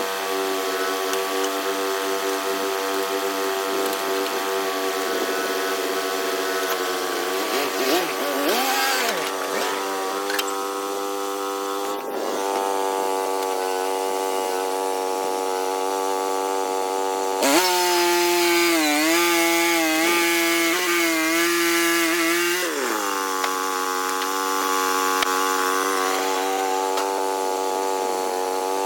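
Small sawmill running at a steady engine note. Briefly around a third of the way in, and again for about five seconds later on, a louder sawing hiss rises while the engine pitch dips and wavers under load as the blade works through the log, then settles back to steady running.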